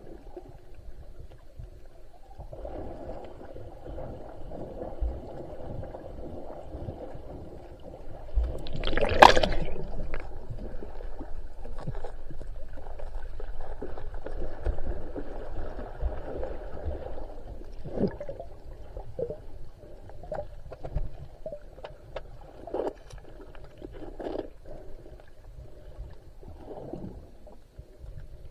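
Water splashing and gurgling, with one loud splash about nine seconds in and scattered smaller splashes and knocks after it, over a low rumble.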